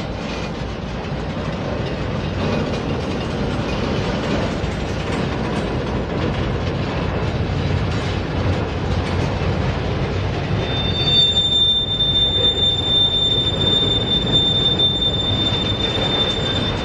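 Freight train's autorack cars rolling past slowly, a steady rumble of wheels on rail. About two-thirds of the way through, a steady high-pitched wheel squeal sets in and holds until near the end.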